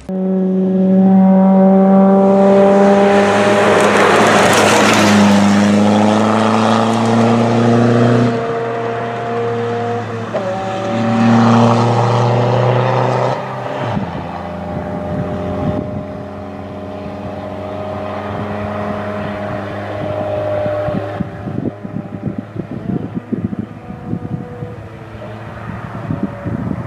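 Rally pickup truck's engine running hard, its pitch climbing, dropping about eight seconds in and climbing again, then easing off to a quieter, steadier run. A rapid crackle of clicks comes in the last few seconds.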